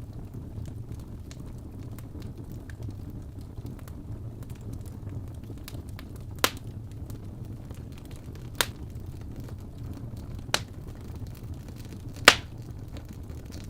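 Wood fire burning in a fireplace: a steady low rumble with faint crackling, and four sharp pops from the burning logs, the loudest near the end.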